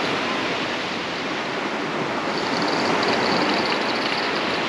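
Ocean surf washing onto a beach, a steady rushing noise; a faint high whirring joins about halfway through.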